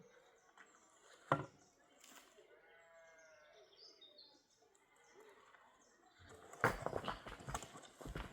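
A single livestock bleat, about a second long, roughly three seconds in, over high bird chirps. A sharp knock comes earlier, and a run of knocks and rustles, louder than the bleat, fills the last couple of seconds.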